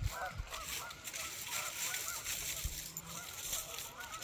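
A large flock of ducks calling over one another in many short, overlapping calls, with a few low thumps near the start and again late on.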